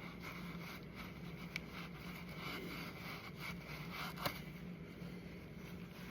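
Faint scraping and wiping as crud loosened with carb cleaner is cleaned off the motorcycle engine, with two light clicks of a tool or part, one early and one about two-thirds through, over a steady low hum.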